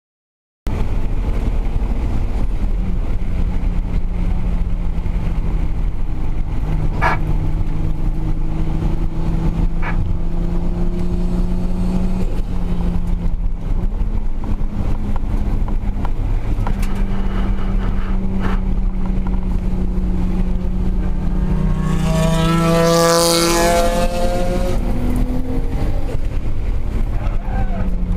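Track cars' engines running on a warm-up lap, heard from on board, holding a steady note for long stretches. About 22 seconds in, the revs rise sharply with a bright, high-pitched rush before settling again.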